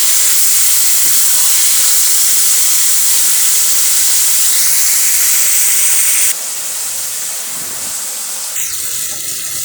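Yogurt-marinated chicken frying in hot oil with onions in a pan: a steady sizzling hiss, which drops suddenly to a lower level about six seconds in.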